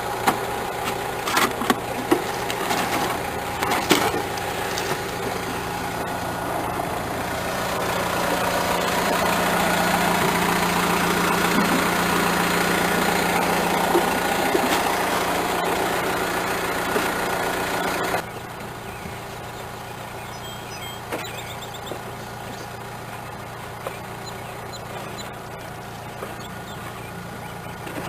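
Large farm tractor engine running steadily, with a few sharp clicks in the first seconds. It grows louder toward the middle, then drops abruptly to a quieter steady hum about eighteen seconds in.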